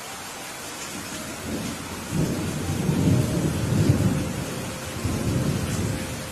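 Steady rain falling, with a roll of thunder that builds about two seconds in, rumbles loudest in the middle, swells once more and dies away near the end.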